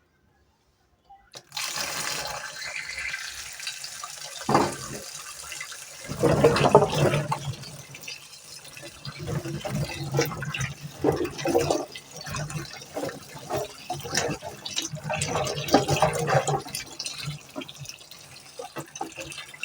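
Running water and irregular splashing as fresh produce is washed by hand, starting about a second in.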